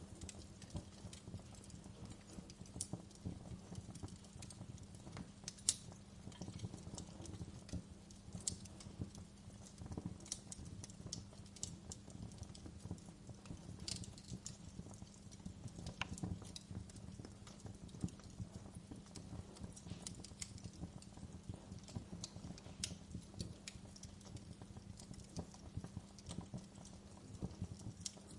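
Wood fire burning in a fireplace, crackling with frequent irregular pops and snaps over a low steady rumble. One sharper pop comes about five and a half seconds in.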